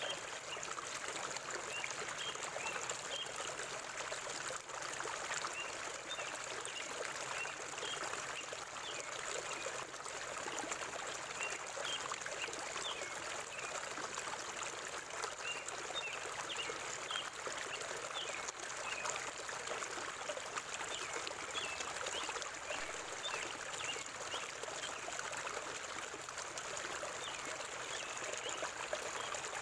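Forest stream running steadily, its water trickling and splashing, with short high bird chirps coming in clusters over it.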